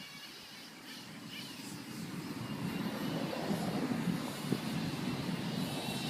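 Losi radio-controlled truck driving, its running noise growing louder over the first few seconds and then holding steady, with a wavering high whine near the end.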